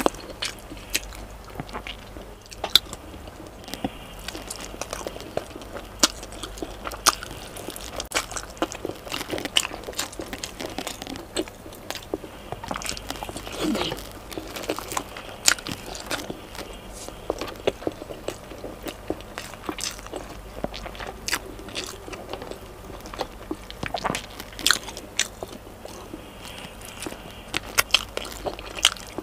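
Close-miked chewing and biting of braised chicken adobo, with many short, sharp mouth clicks coming irregularly.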